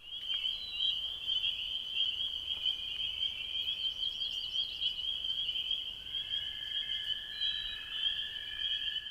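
Chorus of marsh frogs trilling steadily and high-pitched. A second, lower-pitched trill joins about six seconds in.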